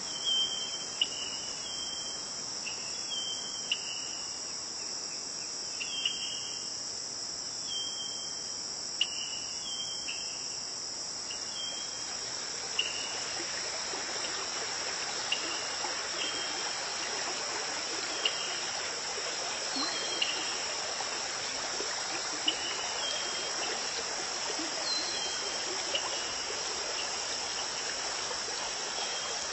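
Crickets trilling steadily, with short high chirps repeating about once a second. From about halfway through, the rush of a flowing stream comes in beneath them.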